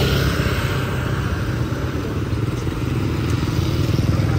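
Motorbike engine running steadily, a continuous low hum.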